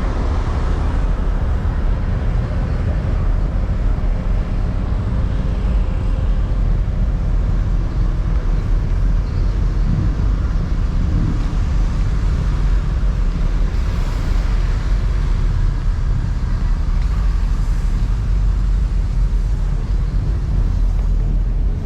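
Steady, loud low rumble of motor vehicle noise, with no distinct engine note or rev changes.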